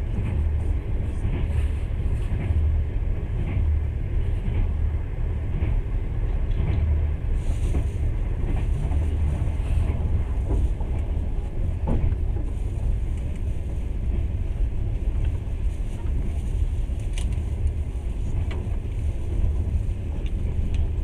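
Passenger train running at speed, heard from inside the carriage: a steady low rumble from the wheels and running gear, with a couple of faint knocks.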